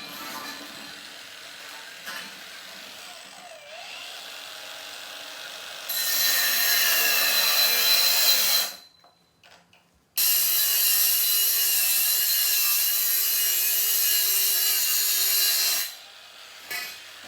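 A power tool running under load in two long stretches with a steady high whine, cut off suddenly for a moment in between. Quieter scraping and rubbing come before it.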